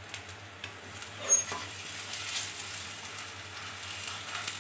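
Besan chilla batter sizzling in oil on a hot flat griddle (tawa), a fine steady hiss with scattered small crackles and pops.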